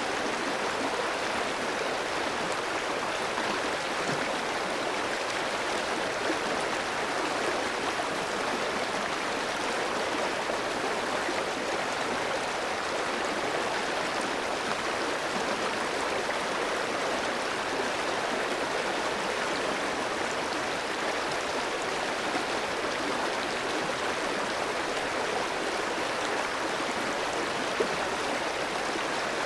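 Clear stream running over rocks: a steady, even rush of flowing water.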